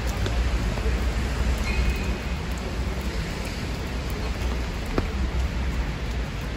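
Steady rain falling on a wet city street, an even hiss, with a low rumble underneath.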